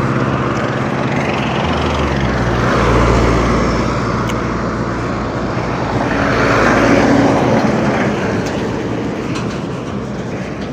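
Road traffic passing close by: vehicles going by one after another, the tyre and engine noise swelling about three seconds in and again around seven seconds.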